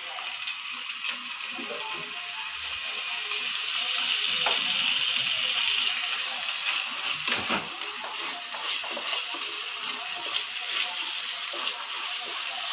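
Chopped tomatoes and onions sizzling in oil in a non-stick frying pan, a steady hiss with the rapid scraping of a wooden spatula stirring them against the pan.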